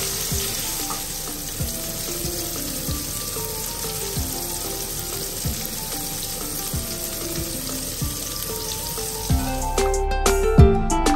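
Chicken strips sizzling in a ridged stovetop grill pan as they are turned with a wooden spatula, a steady frying hiss under soft background music. About nine and a half seconds in the sizzling stops and louder plucked-string music takes over.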